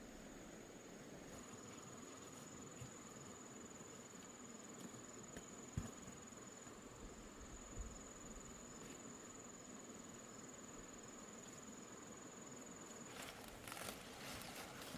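Faint outdoor ambience: an insect's steady high-pitched trill runs on and stops about two seconds before the end. Rustling and light crackling clicks follow.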